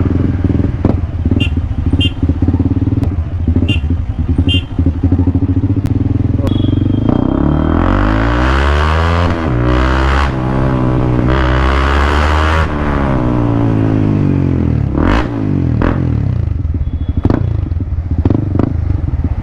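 Honda CB300R's single-cylinder engine running loud with a bassy note through a full-system Akrapovic exhaust that has no catalytic converter. The engine runs steadily, then from about seven seconds in its revs climb and fall several times before settling back, with a few sharp clicks along the way.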